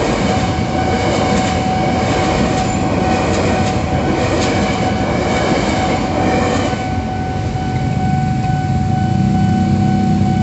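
Electric commuter train running over the level crossing, its wheels rumbling on the rails until it clears about seven seconds in. A steady warning tone from the crossing signal sounds throughout. After the train has passed, the engines of the waiting motorcycles rise.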